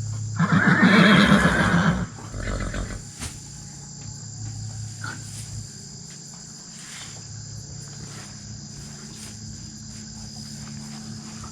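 Horse neighing: one loud call lasting about a second and a half, then a shorter, weaker call just after.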